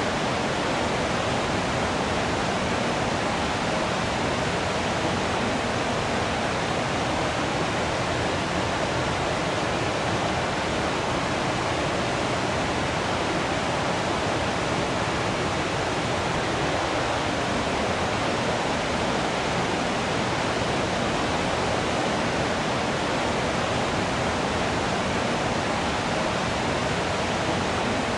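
Waterfall water rushing in a steady, unbroken roar of noise.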